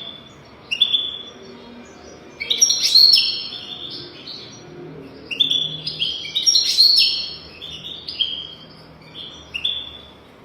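European goldfinch song: bursts of quick, twittering chirps and short trills, sung in phrases of a second or two with brief pauses between them.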